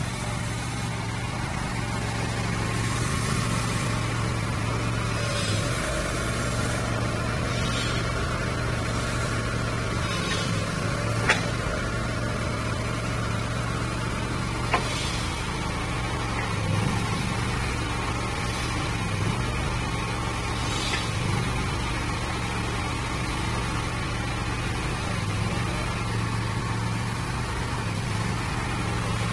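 Diesel engine of a mini crawler skid steer loader running steadily, with two sharp knocks about 11 and 15 seconds in.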